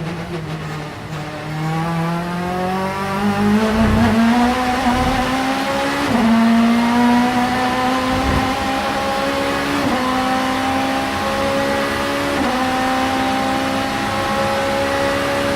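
Vauxhall Vectra Super Touring race car's two-litre four-cylinder engine slowing at first, then accelerating hard, its pitch climbing through the gears with quick upshifts about six, ten and twelve and a half seconds in.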